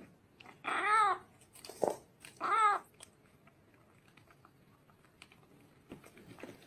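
A cat meowing twice, each meow rising and falling in pitch, about two seconds apart, followed by faint scattered clicks.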